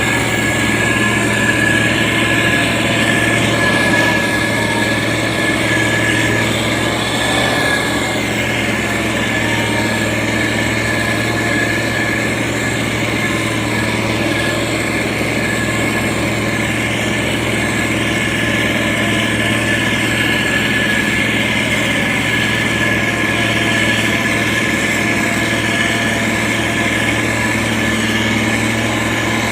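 Diesel engine of heavy road-building machinery running steadily at a constant speed, with a thin steady whine above the engine note.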